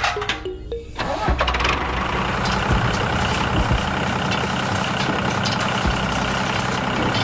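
An engine starts about a second in, after a few short clicks, and then runs steadily with a low rumble.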